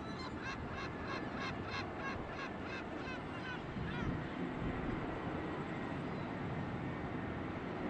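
A bird calling in a quick series of about ten harsh notes, roughly three a second, that trail off after about three seconds, over a steady background rumble.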